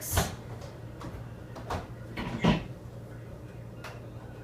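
A few short clicks and knocks of a door being handled, the sharpest right at the start and a small cluster about two and a half seconds in.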